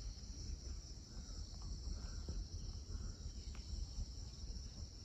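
Steady high-pitched chorus of crickets trilling without a break, over a faint low rumble.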